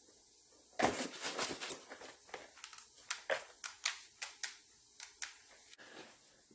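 Quick, irregular clicks and snaps of hand tools and small metal parts being worked on thin wires and terminals, about three or four a second, starting about a second in and thinning out near the end.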